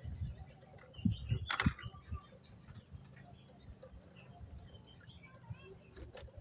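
Soft, short chirps from a young sooty-headed bulbul, with low bumps and a sharp click about one and a half seconds in.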